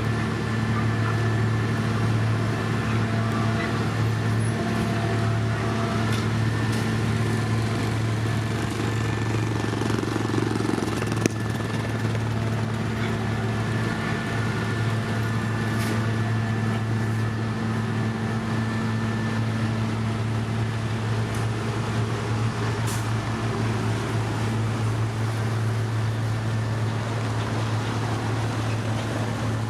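Heavy road-construction machinery with diesel engines running steadily, a constant low drone with no revving. One short sharp click about eleven seconds in.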